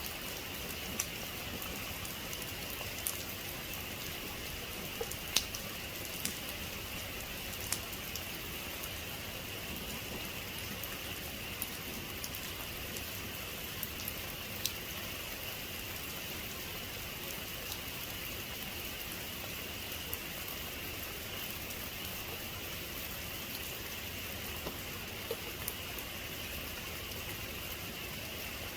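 Steady rain falling in an even hiss, with scattered single drops ticking sharply on a nearby surface.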